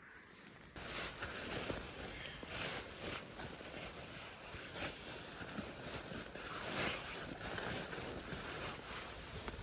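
Blizzard wind, a rough rushing noise that swells and eases in gusts, starting suddenly about a second in.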